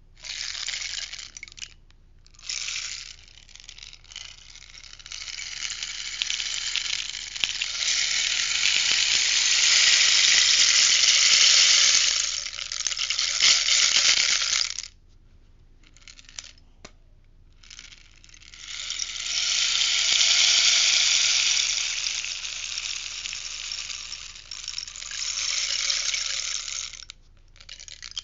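Rainstick, its beads trickling down inside the tube in long rattling cascades. The cascades stop briefly about two seconds in, for a few seconds about halfway through, and again near the end, as the stick is turned over.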